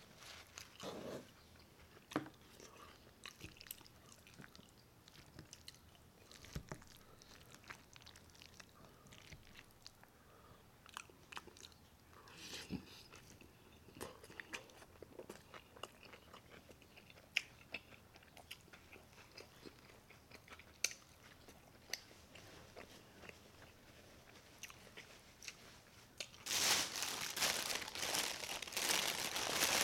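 A person chewing a forkful of lettuce and carnitas with scattered crunches and mouth sounds. From about four seconds before the end, a plastic bag crinkles loudly as it is handled.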